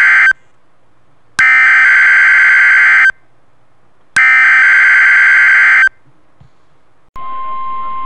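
Emergency alert broadcast of a tornado warning: the harsh buzzing data bursts of the encoded alert header, end of one burst then two full ones about 1.7 s long with gaps between. Near the end a steady single-pitched warning alert tone begins.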